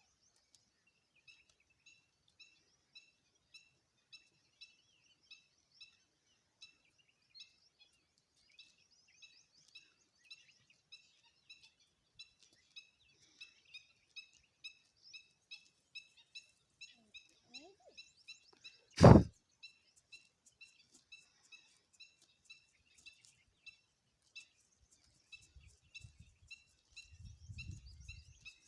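A bird chirping steadily, one short chirp about every two-thirds of a second. About two-thirds of the way through there is a single loud thump, and near the end a low rumble.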